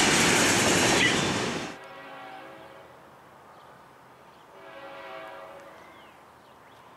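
Freight train covered hopper cars rolling past close by, a loud steady rumble and clatter of wheels on rail that cuts off abruptly just under 2 seconds in. Then a distant locomotive's chime horn sounds two blasts, the second longer, as the train approaches a grade crossing.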